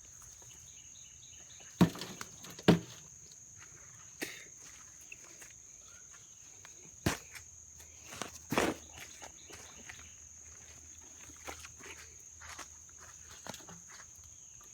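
Thuds and scrapes of digging and trudging in wet, sticky mud: a few heavy impacts, the two loudest about two seconds in and more around seven to nine seconds, with small clicks and squelches between. A steady high-pitched insect drone runs behind them.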